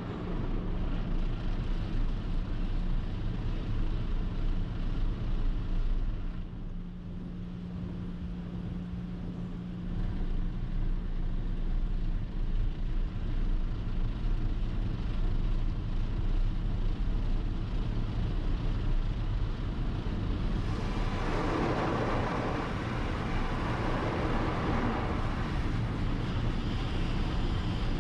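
Automatic car wash heard from inside a car: a steady low rumble with a humming tone. About twenty seconds in, a much louder rushing of water spray or brushes starts and keeps going.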